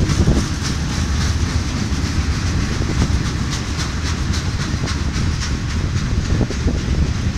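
BNSF freight train of boxcars rolling past: steady noise of steel wheels on the rails, with repeated clicks from the wheels passing over rail joints around the middle.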